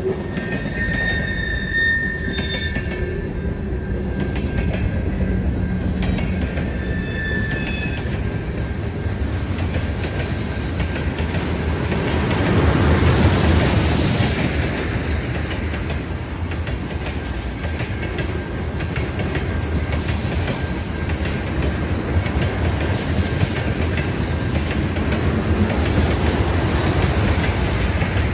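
A train rolling past on the rails, a steady rumble that swells to its loudest about halfway through. Brief high-pitched wheel squeals come near the start and again about two-thirds of the way in.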